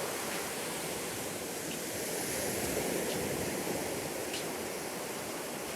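Ocean surf washing onto a sandy beach, a steady rush of breaking waves that swells a little about two seconds in.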